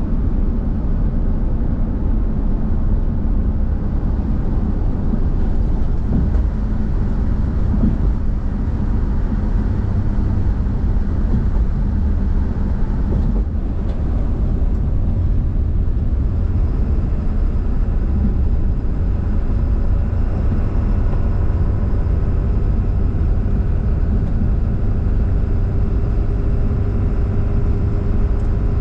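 Steady road and engine noise inside a vehicle's cabin while driving at highway speed: a loud, even low rumble, with faint steady tones joining about halfway through.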